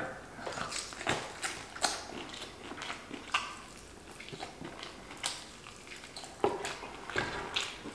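Close-up biting and chewing of fried chicken: irregular crunches and wet mouth clicks, a few each second.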